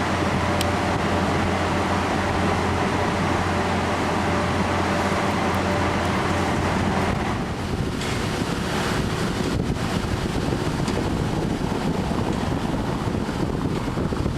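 A steady vehicle-like hum with a constant low drone, changing about seven seconds in to wind rushing and buffeting the microphone, with scattered small clicks.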